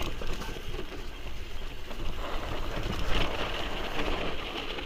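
Mountain bike ridden over a rough trail: steady wind rumble on the microphone with tyre and trail noise, which grows louder and rougher about two seconds in.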